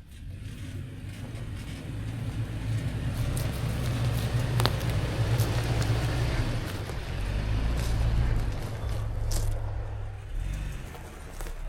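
Pickup truck driving, its engine running steadily under tyre and road noise. The engine note drops away near the end.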